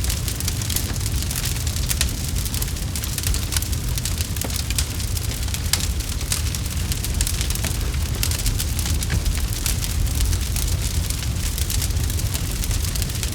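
Campfire burning, with a steady low rumble of flames under dense, irregular crackles and pops of burning wood.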